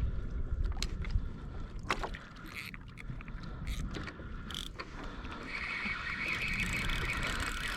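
Spinning reel clicking as a fish pulls line off a live bait. Scattered single clicks at first, then from about five seconds in a steady buzzing ratchet as the fish takes line faster.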